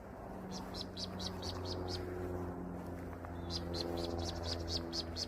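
A small bird singing two runs of rapid, evenly spaced high notes, about seven a second, the second run starting about three and a half seconds in. A steady low hum runs underneath.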